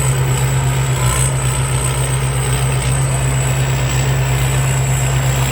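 Combine harvester's 235-horsepower Hino J08C turbo diesel running steadily as the machine works slowly through the rice: a deep, even drone with a thin high whine held over it.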